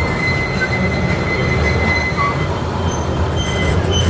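Miniature train running along its track, heard from aboard: a steady low rumble with a thin high squeal over it that fades about halfway through.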